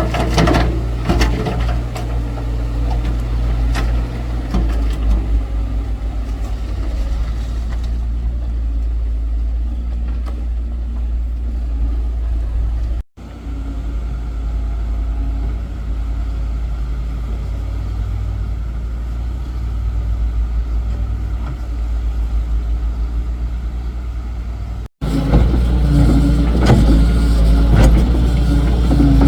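Excavator's diesel engine running steadily, with scattered knocks and clanks from the machine working. The sound cuts off abruptly twice, about halfway and about four seconds before the end.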